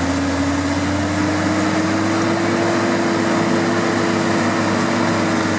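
Off-road vehicle engine running under steady load, its pitch rising over the first couple of seconds and then holding steady.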